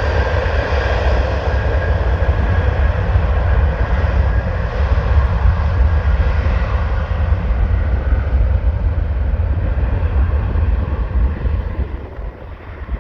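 Jet airliner's engines at takeoff thrust on departure: a loud, steady engine noise with a high whine over a deep rumble, fading near the end.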